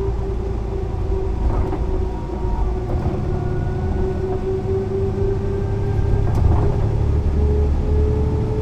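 Mercedes-Benz O 405 NÜ low-floor bus under way, its engine and drivetrain giving a steady low rumble with a held whine above it. The rumble drops briefly about two and a half seconds in, then builds again and swells near the end.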